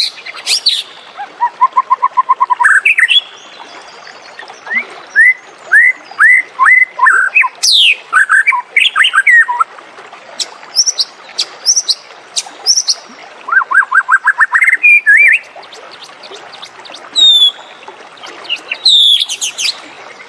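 White-rumped shama singing a varied song in separate phrases: runs of quick, evenly repeated notes, falling and rising whistled sweeps, and sharp high notes, with short pauses between phrases.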